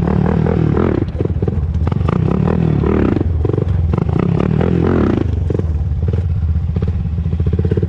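2001 Honda TRX400EX quad's single-cylinder four-stroke engine running on the move, its revs rising and falling a few times.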